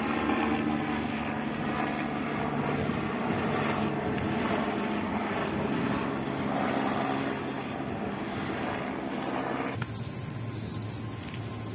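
Steady running drone of an Ivolga electric multiple unit heard from inside the train, with a low motor hum. The sound changes abruptly near the end.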